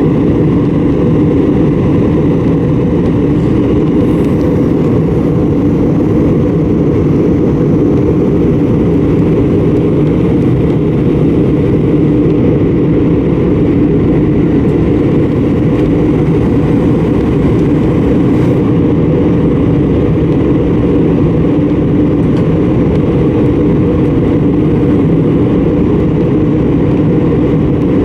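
Steady engine and airflow noise of an Airbus A320, heard inside the passenger cabin in flight: a loud, even rumble with a faint high tone above it.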